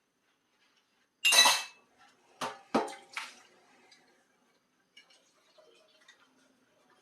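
Dishes and cutlery clattering while being washed up: a short, loud rattling burst, then three sharp ringing clinks in quick succession, followed by faint small taps.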